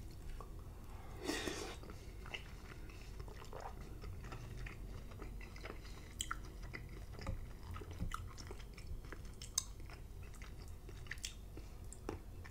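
Close-miked chewing of wet, slimy cooked spinach, with scattered short wet clicks and smacks from the mouth. A metal fork clinks and scrapes in a glass bowl about halfway through.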